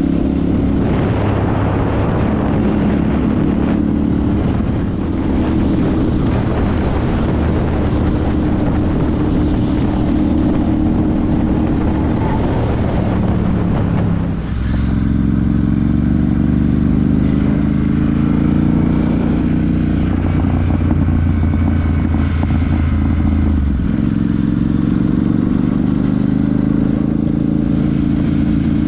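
Royal Enfield Super Meteor 650's parallel-twin engine and exhaust on the move, engine speed rising and falling under throttle. About halfway through, the sound dips briefly, as at a gear change, and then the revs climb again.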